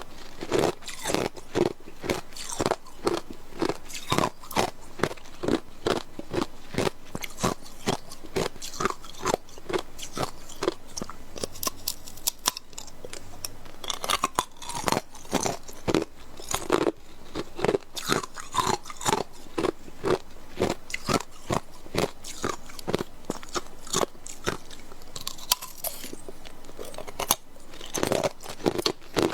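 Ice cubes being bitten and chewed: a fast, unbroken run of hard crunches, about two or three a second.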